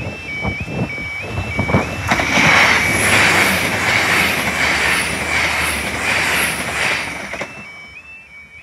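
Translink NI Railways Class 4000 diesel multiple unit passing close by. Loud rushing engine and wheel noise rises about two seconds in and fades after about seven seconds. The level crossing's two-tone warning alarm yelps in a steady repeating pattern, clear before and after the train.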